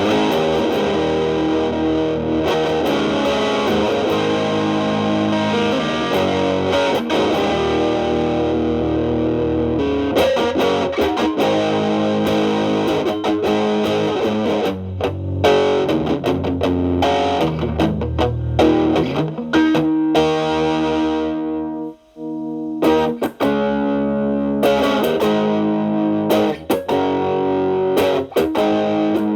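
Telecaster with alnico single-coil pickups played through an MXR Distortion+ set to 3, stacked with a Boss SD-1, into a Marshall Valvestate amp's clean channel: a distorted electric guitar. It rings out on sustained chords for about twenty seconds, breaks off briefly, then plays choppier picked notes and chords.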